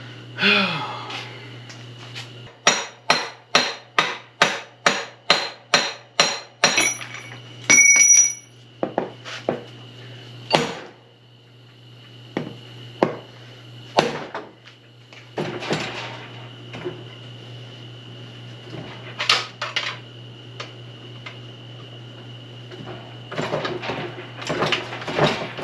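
A hammer striking metal: a quick run of about a dozen blows, two or three a second, a few ringing hits, then scattered single knocks, in an effort to free a stuck bearing from an SM465 transmission.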